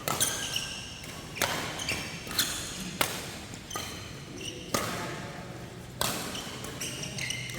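Badminton rally: rackets striking the shuttlecock in a series of sharp hits, about one every half second to a second, with short high squeaks between them.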